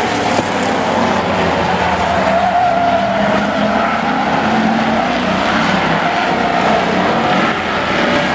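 Demolition-derby pickup trucks racing around an oval track, their engines running hard, with tyres squealing about two seconds in.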